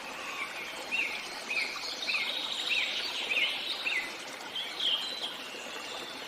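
A small bird singing a short chirp about six times, roughly every half second, with a few higher calls near the end, over a steady hiss of background noise.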